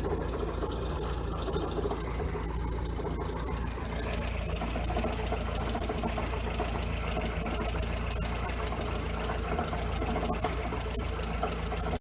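Lada Kalina engine idling with a rapid "tr-tr-tr" rattle from the drivetrain, which grows more prominent about four seconds in. The rattle goes away completely when the clutch pedal is held down, which points to the gearbox or clutch side rather than the engine itself.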